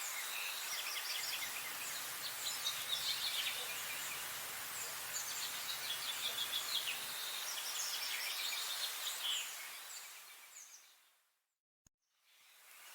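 Several songbirds chirping and trilling over a steady outdoor hiss. Near the end the sound fades out to silence, a single click sounds, and the ambience fades back in, as at an edit or loop point.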